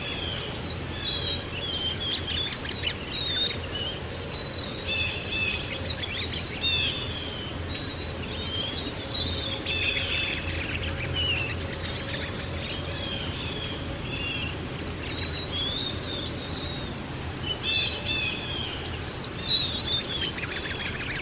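Several small birds chirping and twittering continuously, their calls overlapping, over a steady low background rumble.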